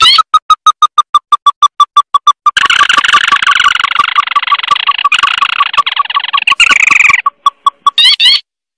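Crake (tikusan mata merah) calls played as a bird lure: a fast run of short, sharp notes, about eight a second, breaking into a dense continuous trill from about two and a half seconds to seven seconds, then thinning to scattered notes and a few falling calls near the end.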